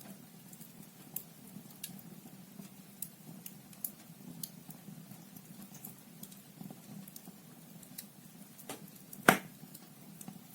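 Logs burning in a wood fireplace, crackling with scattered small pops over a soft steady hiss, and one much louder crack about nine seconds in.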